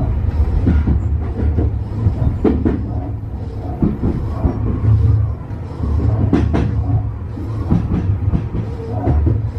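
Tobu 50090-series electric train running along the line: a steady low rumble with a few sharp clicks from the wheels and track.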